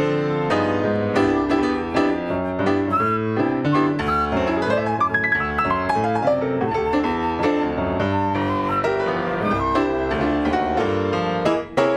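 Piano playing a swing jazz standard, with dense chords and quick runs of notes.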